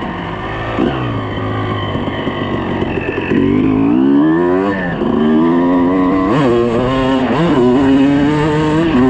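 A 2006 Suzuki RM250's two-stroke single-cylinder engine revving. Its note climbs steadily for about a second and a half midway, then makes two quick rev swings about a second apart.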